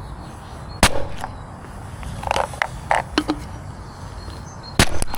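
A few sharp clicks and knocks, one about a second in and two close together near the end, with softer scrapes and taps in between, over a low steady background.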